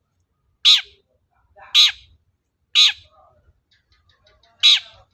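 Long-tailed shrike (cendet) giving four short, harsh calls about a second apart, each sweeping down in pitch.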